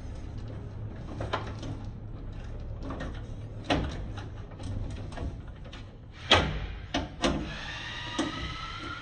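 Scattered clicks and knocks of metal furnace parts and tools being handled during repair work, the loudest a little past six seconds, with two more close together about a second later, over a steady low hum.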